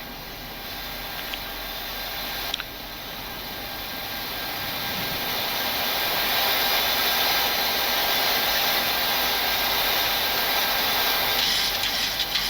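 Boeing 737-800 flight deck noise on approach: a steady rush of air, growing louder over the first half and then holding level. A single click about two and a half seconds in.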